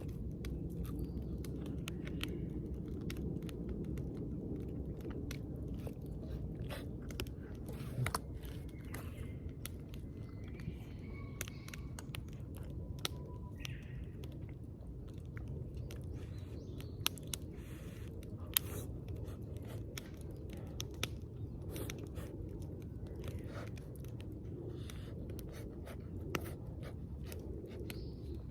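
A person chewing and biting into food close to the microphone: many small scattered clicks over a steady low rumble.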